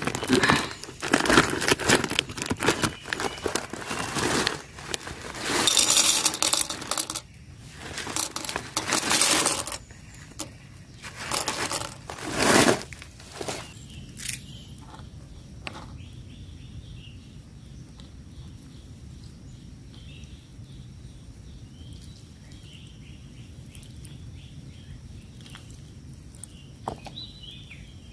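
Crinkling and rustling of something being handled, in loud irregular bursts through the first half, then it drops away to a few soft clicks over a faint steady high tone.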